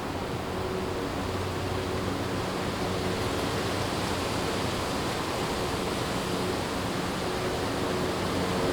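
Strong wind rushing through forest trees in a steady wash that swells slightly a few seconds in, with a faint low hum underneath.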